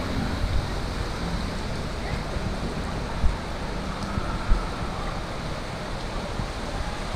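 Steady rushing noise of rain and floodwater, with wind buffeting the microphone and two low bumps, a little past three and four and a half seconds in.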